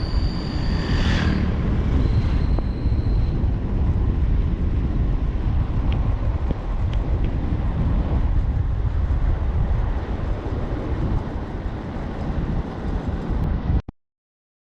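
Steady low rumble of a vehicle travelling on a road, with a thin, high, steady whistle over it in the first few seconds; the sound cuts off abruptly near the end.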